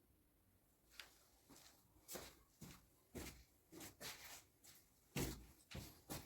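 A string of faint, irregular knocks and clicks, about two a second after the first second, from things being handled or set down.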